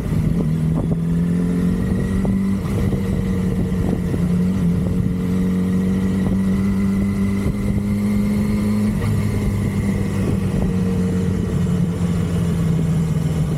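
2006 Yamaha R6's inline-four engine on its stock exhaust, running steadily well above idle. Its pitch steps up slightly twice in the first three seconds and drops a little about nine seconds in.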